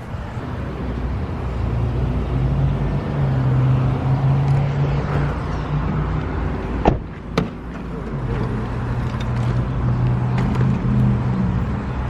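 Car running on the road: a steady engine hum and road noise that swell and ease, with two sharp clicks about seven seconds in.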